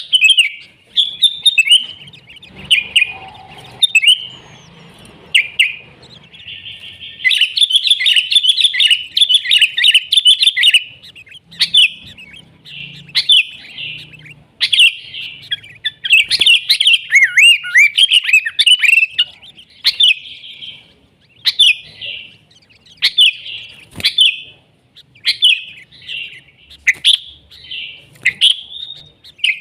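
Sooty-headed bulbuls (kutilang) singing and chattering: a steady run of short, quick chirping phrases, busiest and most overlapping from about a quarter of the way in to a third of the way through.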